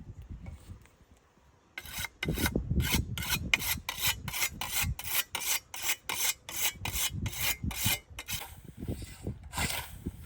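Rapid, rhythmic rasping strokes of something hard rubbing on a surface, about three to four strokes a second. They start about two seconds in and thin out and soften near the end.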